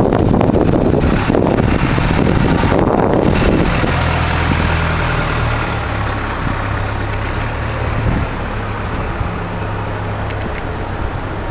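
Tractor engine running steadily while driving a small square baler, with a loud rushing noise over the first three or four seconds that then eases off.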